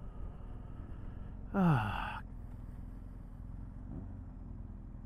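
Steady low rumble of a motorcycle riding along. About a second and a half in, a short loud sigh-like voice sound falls quickly in pitch.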